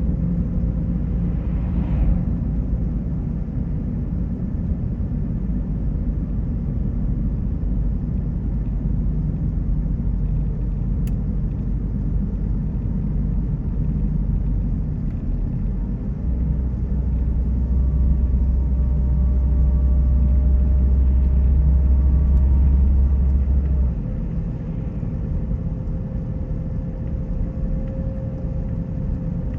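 Car driving on the road: a steady low rumble of road and engine noise, growing louder for several seconds past the middle and easing off again near the end.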